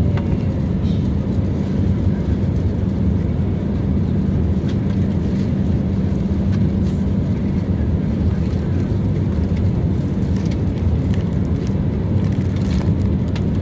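Steady low drone of an airliner cabin in flight: jet engine and air noise heard from inside the cabin, with a few faint clicks.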